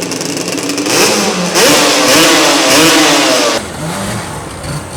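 Two-stroke quad bike engine revving hard, its pitch climbing in several rising sweeps, then falling away suddenly about three and a half seconds in to a quieter running.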